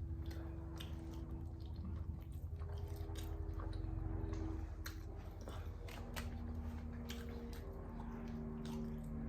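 A person chewing food close to the microphone, with small wet mouth clicks and smacks, over a steady low hum.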